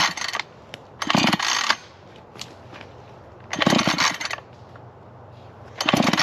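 Husqvarna 440 two-stroke chainsaw being pull-started: four short yanks on the recoil starter a second or more apart, each turning the engine over briefly without it catching. The saw has overheated after clogging with wet, punky stump wood.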